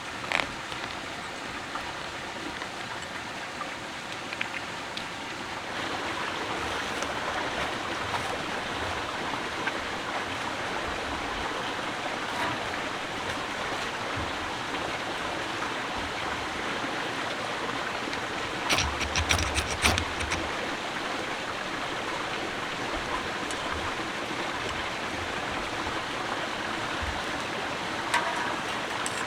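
Steady rushing of flowing water, stepping up a little in level about six seconds in, with a short cluster of clicks and low knocks around twenty seconds in.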